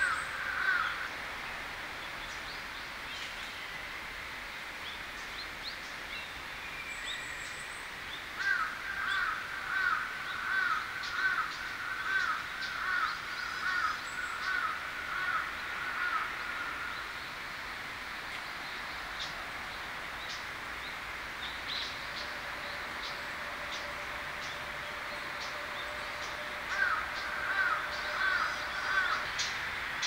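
A bird calling in a fast run of repeated notes, about two a second for several seconds, with a shorter run near the end. Scattered sharp high chips from small birds come between, over a steady outdoor background.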